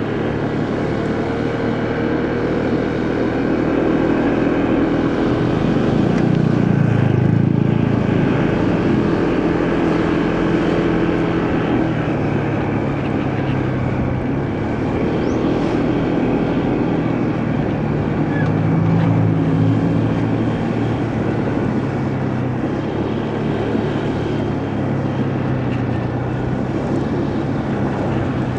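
Motorcycle engine running under way, its pitch rising and falling as speed changes, over steady road and wind noise.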